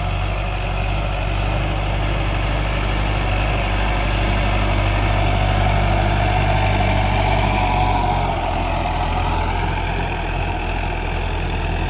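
Sonalika tractor's diesel engine running steadily as it ploughs, its note changing about eight seconds in.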